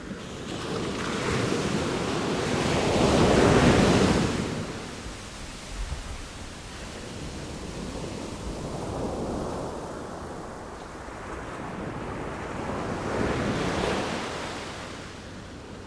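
Sea waves breaking and washing up, in slow surges: a big wave builds and peaks about three to four seconds in, then smaller waves swell and fade twice more.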